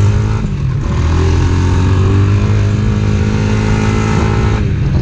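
Off-road vehicle engine running at steady throttle while riding, easing off briefly about half a second in and again near the end.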